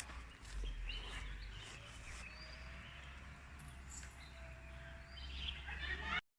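Birds chirping now and then, short calls over a low steady rumble; the sound cuts off suddenly near the end.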